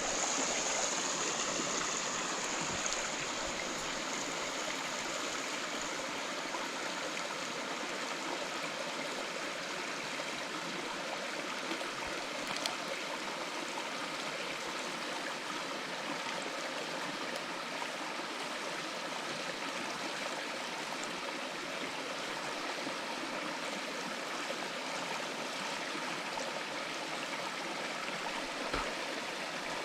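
Mountain stream running steadily, an even rush of water with a few faint clicks over it.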